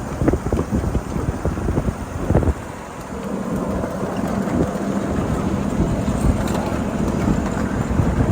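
Ride-on 7.5-inch-gauge miniature train rolling along the track: its wheels rumble and clatter, with wind buffeting the microphone. A steady low hum joins about three seconds in.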